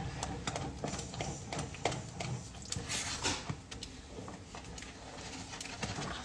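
A stirring utensil clicking and scraping against a saucepan in irregular light taps as a thickening custard is stirred on the heat.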